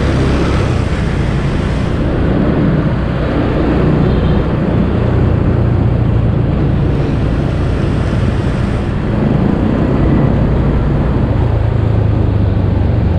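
Honda automatic scooter riding in city traffic: steady engine running under heavy wind rush on the handlebar-mounted camera's microphone, with the hum of surrounding traffic.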